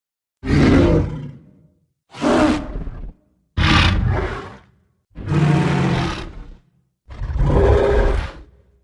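Creature roar sound effects for a giant Triceratops-like monster: five separate growling roars, each about a second long, with short silent gaps between them.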